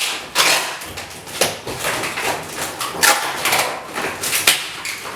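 Packaging being handled while unboxing an oven: irregular rustling and scraping of cardboard and plastic wrap, with a few light knocks.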